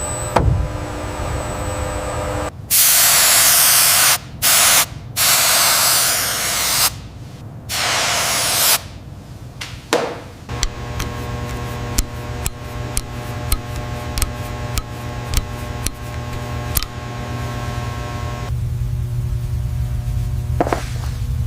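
Hissing spray from a nozzle in four bursts, one after another, the longest nearly two seconds. Then a steady hum with scattered light ticks and taps.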